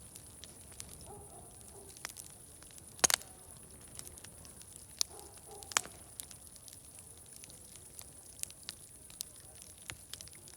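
Wood fire crackling with irregular sharp pops, the loudest a quick cluster about three seconds in, over a faint murmur of distant voices.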